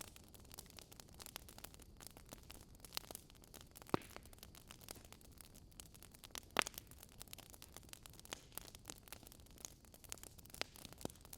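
Burning wood logs crackling: a continual run of small snaps over a low, even rumble, with two louder pops about four and six and a half seconds in.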